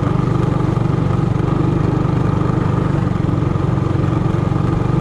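Single-cylinder minibike engine running at a steady, even pace, with a rapid exhaust pulse and no revving.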